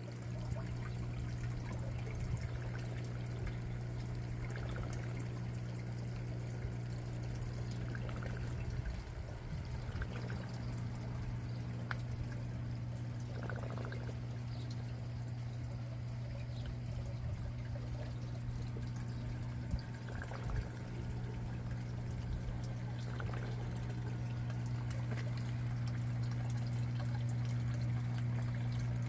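Water pouring and trickling steadily, over a steady low hum.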